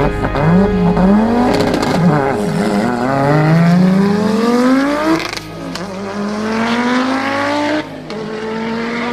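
A drag car's engine revs up and down at the start line, then launches about three seconds in. Its pitch climbs steadily through the gears, with an upshift about five seconds in and another near the end, and the sound gets quieter after each shift as the car pulls away.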